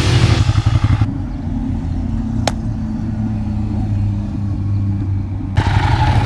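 Ducati V-twin motorcycle engine running at low revs, heard muffled, with a single sharp click midway. Near the end the sound turns suddenly louder and brighter.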